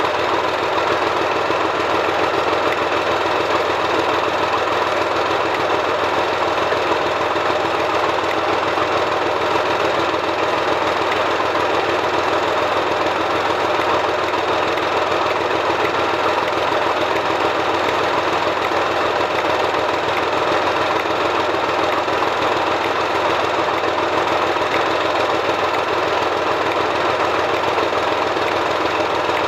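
Class 37 diesel locomotive's English Electric V12 engine idling steadily after a cold start.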